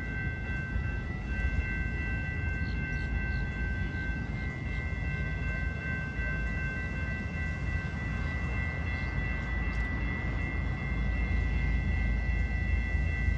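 Florida East Coast freight train approaching in the distance: a steady low rumble with a thin, steady high-pitched tone of a few pitches held over it.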